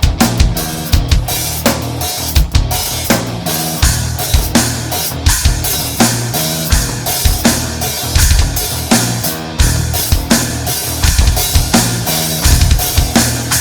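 A band playing an instrumental passage: a drum kit drives a steady beat on bass drum and snare, under bass guitar and electric guitar.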